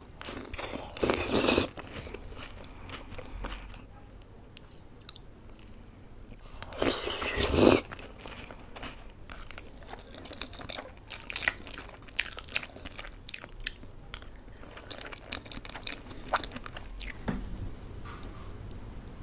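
Close-miked eating sounds: biting into dahi golgappe with crisp puri shells and chewing Maggi noodles. Two louder crunching bites come about one second and about seven seconds in, followed by many small wet mouth clicks of chewing.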